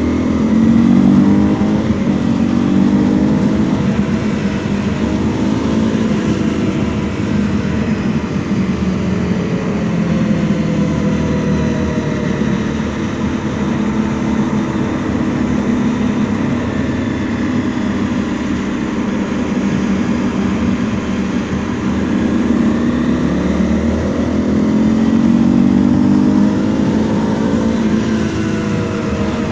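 Honda CRF 250 L's single-cylinder 250 cc engine running on the move. It revs up near the start, settles and eases off through the middle, then revs up again and drops back near the end.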